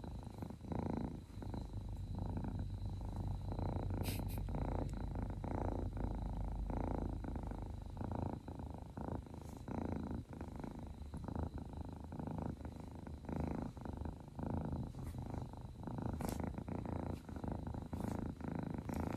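Kitten purring steadily and close up, the purr swelling and fading in an even rhythm. A couple of brief clicks break in.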